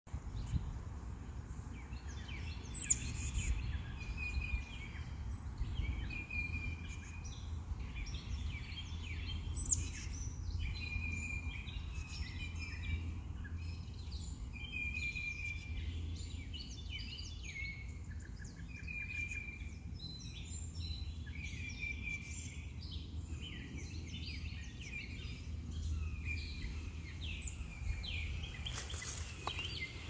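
Birds chirping and calling, with one short note repeated about every two seconds, over a steady low rumble of background noise.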